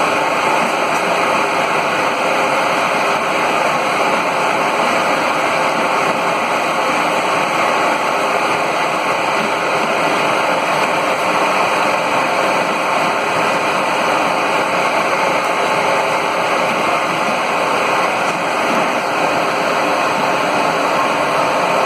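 Steady, loud machinery noise of a running coal- or biomass-fired steam boiler plant, a constant rushing hum with no changes in level.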